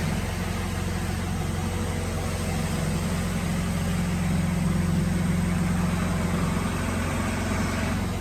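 Electric motor of a woodworking machine running with a steady hum.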